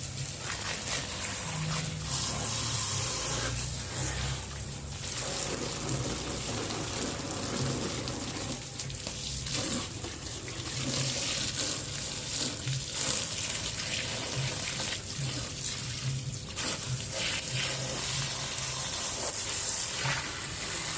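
Water spraying steadily in a wash, hissing, with a few brief dips as the spray is moved, rinsing mud off a 1/10 scale RC truck.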